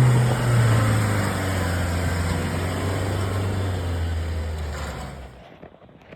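A motor running with a low hum that slowly drops in pitch, winding down and stopping about five seconds in.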